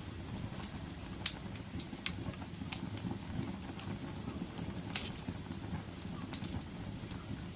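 Wood fire crackling: scattered sharp pops and snaps, the loudest about a second in and about five seconds in, over a steady low rumble of burning.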